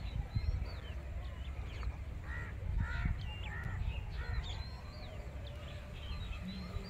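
Birds calling: high, quick chirps throughout, with a run of four louder calls in a row from about two to four seconds in, over a steady low rumble.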